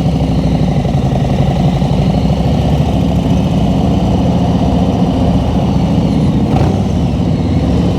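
Harley-Davidson Road Glide Special's V-twin engine running steadily while riding at cruising speed.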